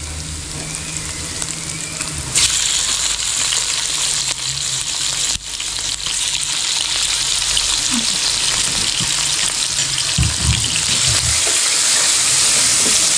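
Octopus pieces going into hot oil in a wok, hissing and sizzling, much louder from about two seconds in. Near the end they are stirred with a wooden spatula.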